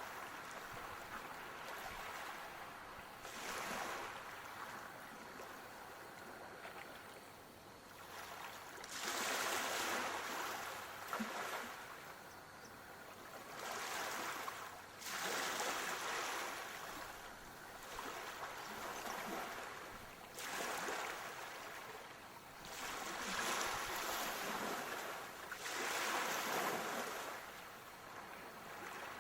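Sea waves washing onto a shore, each wave rising in a swell of noise and falling away every few seconds.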